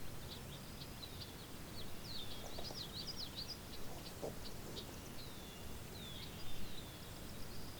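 Birds chirping: many short, quick calls and downward-sweeping chirps throughout, over a steady background of outdoor noise.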